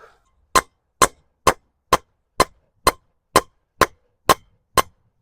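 Hammer blows driving a threaded steel rod through a hole bored in a maple trunk: about ten sharp, evenly spaced clangs, a little over two a second.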